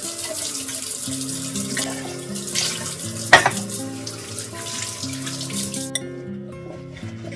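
Tap water running into a sink, with a single sharp knock about three seconds in; the water shuts off abruptly about six seconds in.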